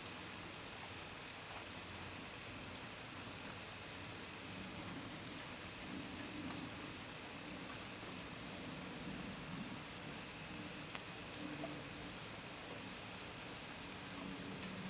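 Steady rain falling, with scattered drops ticking sharply against a window and gutters, and crickets trilling in a steady high-pitched band. A low drone comes in about six seconds in and grows louder near the end.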